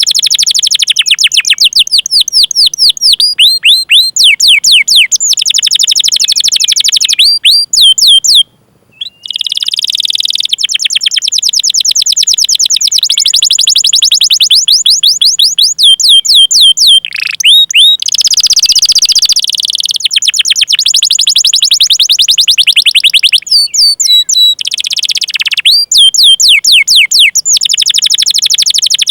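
Domestic canary singing long rolling trills of fast, evenly repeated chirps, changing from one rapid note pattern to the next, with a brief pause about eight seconds in.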